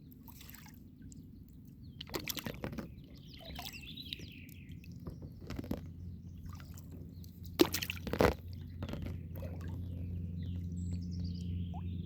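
Kayak paddle strokes: water splashing and dripping off the paddle blades, with a few sharp splashes, the loudest about eight seconds in. Birds chirp faintly in the background.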